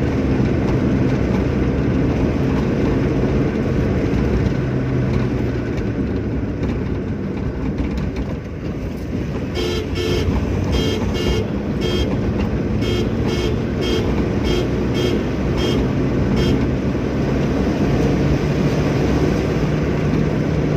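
Steady engine and road noise of a moving car. From about ten seconds in, a vehicle horn sounds in a run of short repeated beeps lasting about seven seconds.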